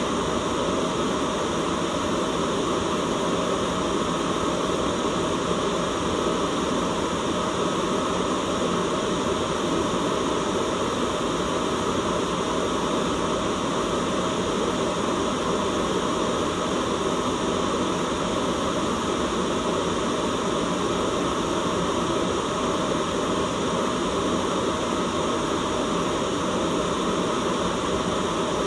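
Steady white noise: an even, unchanging hiss with no breaks or changes.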